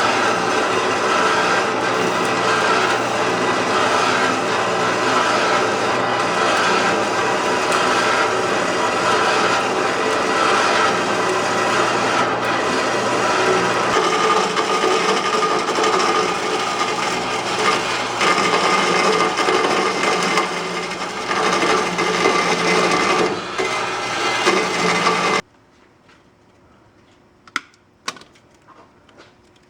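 Power tool cutting through steel exhaust pipe: a loud, steady motor whine and grinding that cuts off abruptly about 25 seconds in, followed by a few faint clicks.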